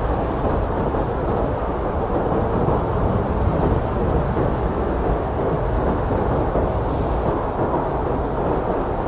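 Blizzard wind blowing steadily, a deep, dense rush of noise with little high hiss and no single gust standing out.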